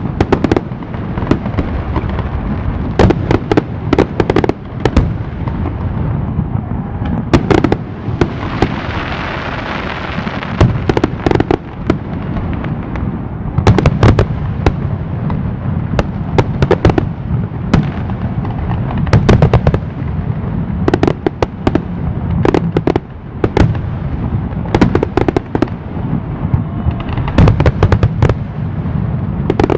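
Fireworks display: aerial shells bursting in quick succession, sharp bangs over a continuous low booming rumble. A crackling hiss of crackle effects rises about a third of the way in.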